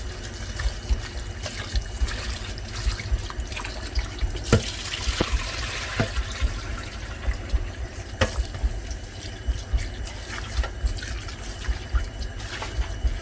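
Kitchen tap running into a sink while spring onions and seasoning herbs are rinsed under it, with a few sharp knocks about halfway through.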